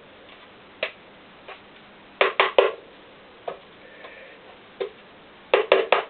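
Sharp metallic clicks and taps from the piston and its rings being handled: single clicks and two quick runs of three.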